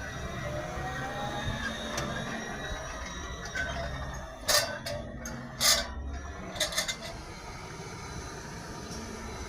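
Tractor engines running steadily at a distance, a low hum. Four short bursts of noise cut across it about halfway through, the second one the loudest.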